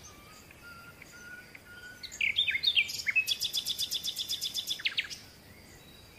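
Songbird singing: a few short falling chirps, then a fast run of repeated high notes for about two seconds.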